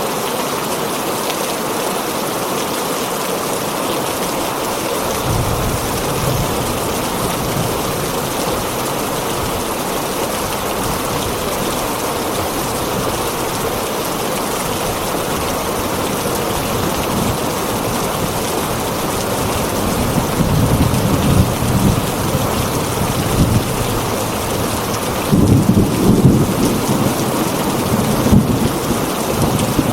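Heavy rain falling on a tin roof in a steady hiss, with thunder rumbling low from about five seconds in and swelling in several louder rolls over the last ten seconds.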